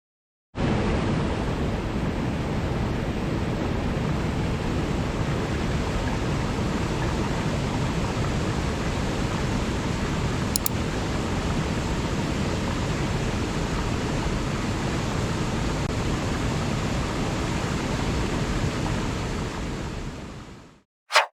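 Steady, unbroken rush of running water, even and without swells. It comes in abruptly and fades out near the end.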